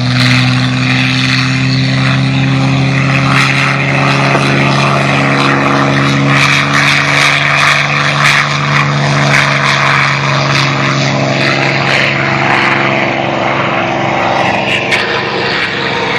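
Piston engines of a P-51 Mustang and a B-25 Mitchell running on the runway: a loud, steady propeller drone. The P-51 has a liquid-cooled V12, and the B-25 has two 14-cylinder air-cooled radials.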